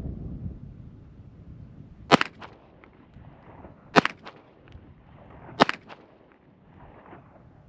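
Three pistol shots from a Springfield Armory Prodigy 9mm, fired slowly and spaced almost two seconds apart, each followed by a short echo.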